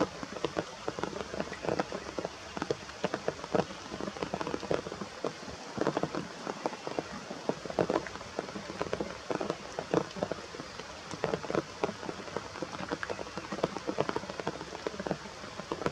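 Rain falling steadily, with dense, irregular drops pattering on nearby surfaces.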